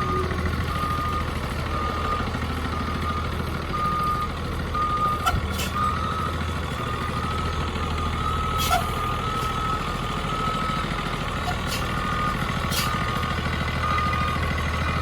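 Blue Bird bus backing up: its reversing alarm beeps at one pitch in an even on-off rhythm over the steady low hum of the engine running.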